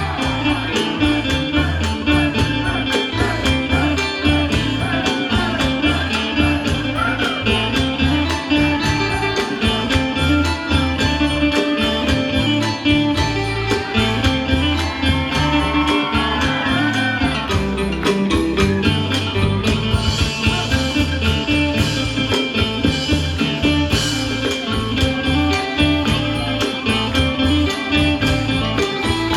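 Isan pong lang ensemble playing live: the wooden log xylophone and other folk instruments over a steady, fast drum-and-percussion beat.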